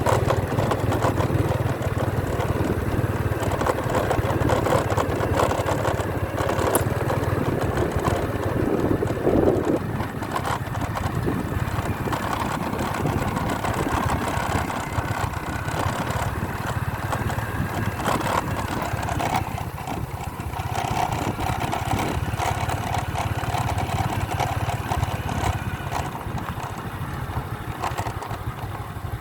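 Motorcycle engine running steadily while being ridden along a country road; the engine note shifts about two-thirds of the way through.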